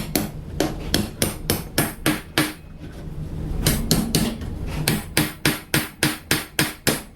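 Hammer pounding half-inch steel carriage bolts through a wood-and-steel-plate sandwich beam: quick, even blows at about three a second, a pause of about a second midway, then another run of blows.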